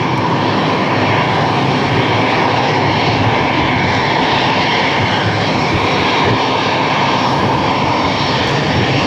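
Steady jet aircraft engine noise, running at an even level with no change.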